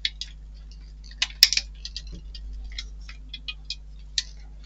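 Small screwdriver working a tight little screw into a model-kit part: a string of irregular light clicks and ticks, with one sharper click about a second and a half in. A steady low hum runs underneath.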